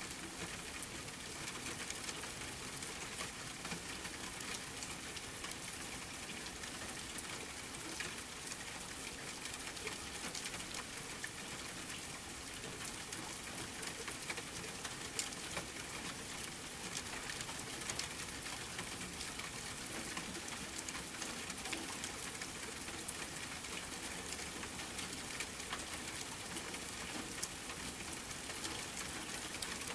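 Steady rain, an even hiss dotted with many small sharp ticks of falling drops.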